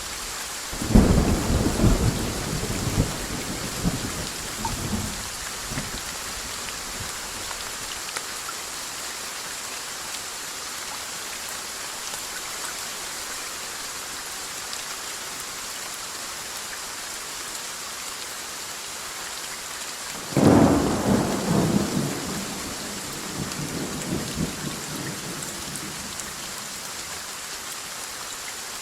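Steady rain hissing, with two cracks of thunder: the first about a second in, rumbling away over several seconds, and a second one about two-thirds of the way through that also rolls on for several seconds.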